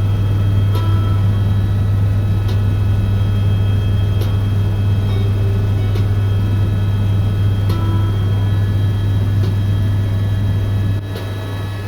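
Helicopter cabin noise in flight: a steady low drone with a thin whine of steady higher tones, and faint ticks about every second and a half to two seconds. The drone drops a little in level near the end.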